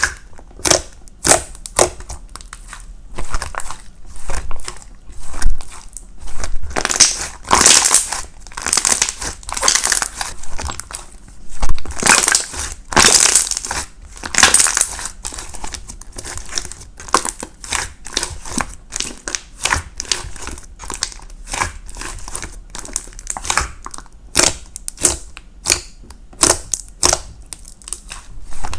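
Irregular crinkling and crushing noises, a rapid run of small crackles and clicks, louder for a few seconds about a quarter of the way in and again near the middle.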